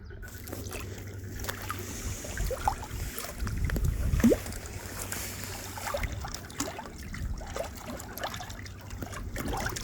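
Water trickling and lapping, with a low rumble and scattered small clicks.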